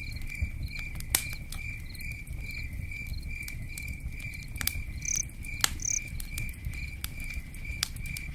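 A cricket chirping in a steady, evenly repeating pulse over a low pattering of rain, with a few sharp snaps from a campfire.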